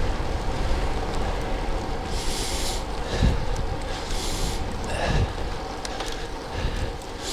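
Steady rumble of wind and tyre noise from a road bike rolling along, with a couple of low thumps from bumps in the road. Twice a short breathy hiss of the rider breathing out, about two and four seconds in.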